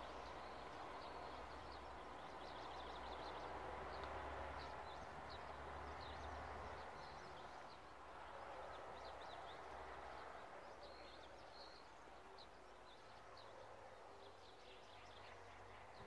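Faint outdoor ambience: many short, high bird chirps and calls scattered throughout, over a steady low background rumble.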